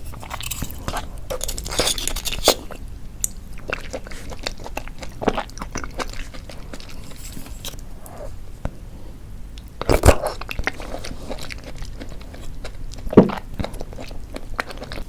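A person eating seafood close to the microphone: chewing and biting with wet crackles and many sharp crunching clicks, two of them loudest about ten and thirteen seconds in.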